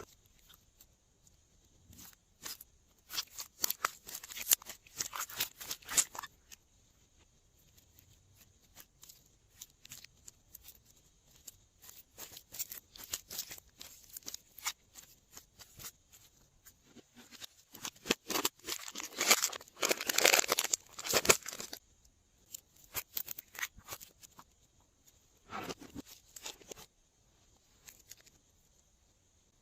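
Glossy slime being squeezed and pulled by hand, making sticky crackling and popping clicks in bunches. The loudest bunches come about three to six seconds in and again around eighteen to twenty-one seconds.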